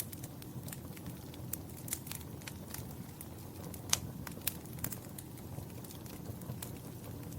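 Wood fire in a fireplace crackling: a steady low rumble of flames with irregular sharp pops and snaps, one louder pop about four seconds in.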